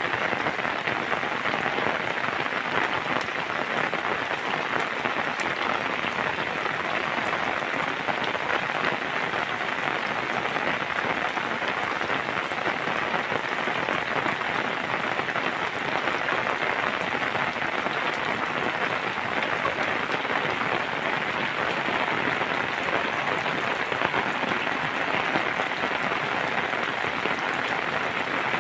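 Steady rain falling: an even, unbroken hiss that holds at the same level throughout.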